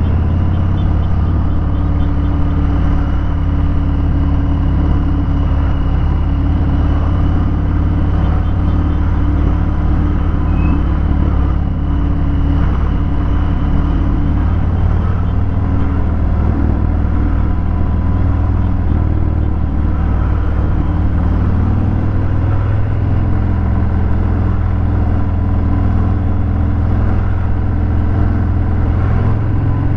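Harley-Davidson Fat Bob 114's Milwaukee-Eight 114 V-twin running through a Vance & Hines Hi-Output 2-into-1 exhaust, while being ridden in traffic. It holds a steady note, with its pitch shifting only slightly.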